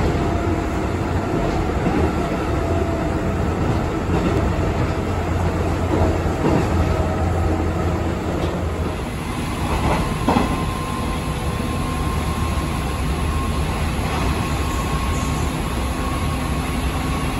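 Train running, heard from inside a passenger car: a steady low rumble of the wheels on the rails, with one sharp clack about ten seconds in.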